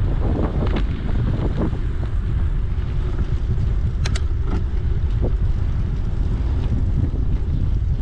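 Wind buffeting the microphone of a camera riding on a moving bicycle, a steady low rumble, with a few short clicks or rattles, the sharpest about four seconds in.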